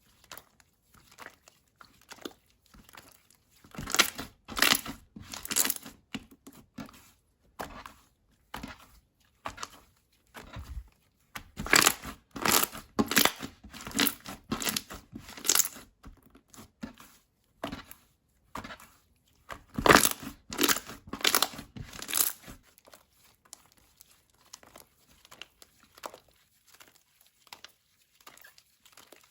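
Slime being squished, pressed and stretched by hand, giving crackly, crinkly popping clicks. The clicks come in clusters with quieter gaps between them.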